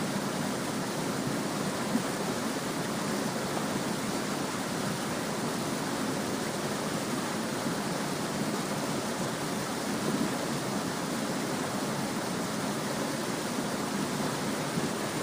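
Small brook flowing, a steady, even babbling of running water.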